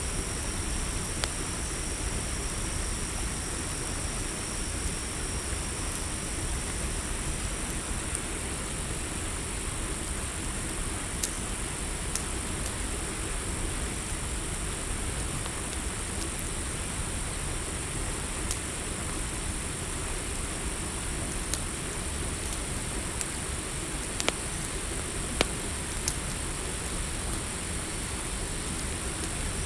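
Campfire crackling with scattered sharp pops, over a steady, high-pitched chorus of crickets and a low rushing hiss.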